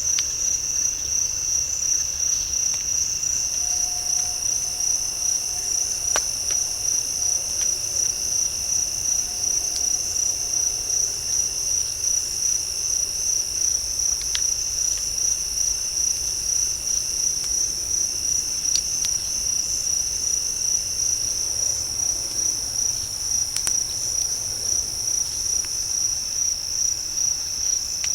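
Night insects, crickets among them, chirping in a dense steady chorus: a high-pitched trill that pulses evenly. A few faint clicks come through it.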